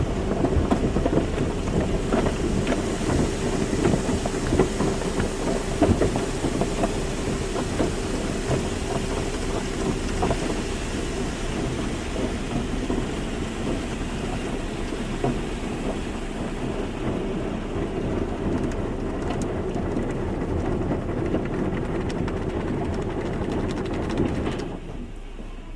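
Automatic car wash running: water spraying and drumming on a car, over a steady hum of machinery. The spray falls away about a second before the end.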